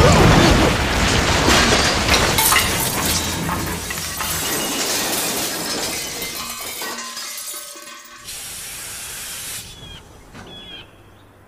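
Animated train-crash sound effect: a loud crash with glass shattering, then debris clattering and rattling as it fades over several seconds. About eight seconds in comes a short hiss of steam lasting about a second.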